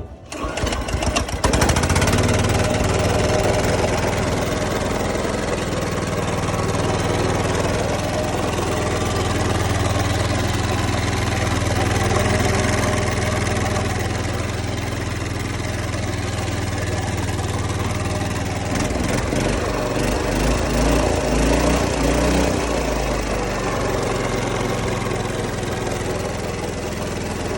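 Small 2.7 kVA petrol generator engine starting up, then running at a steady speed after a governor race rod repair, which shows the governor is now holding its speed. About two-thirds of the way through, the engine's note turns briefly uneven and louder before it settles again.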